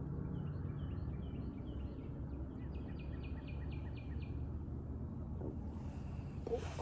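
A small bird singing a run of short, high chirps that come closer together past the middle, then stop, over a steady low background noise.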